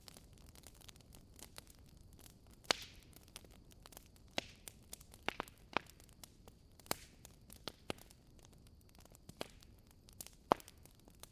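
Burning wood logs in a fireplace crackling: irregular sharp pops and snaps over a faint hiss, the loudest about three seconds in and again near the end.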